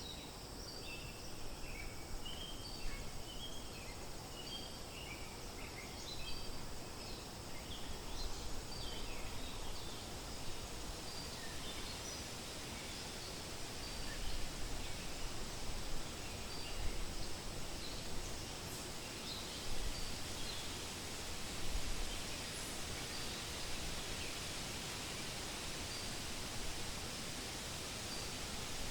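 Wind rustling through forest leaves as a steady hiss, with small birds chirping, busiest in the first several seconds. A thin, high note repeats every couple of seconds throughout, and the wind swells in gusts around the middle.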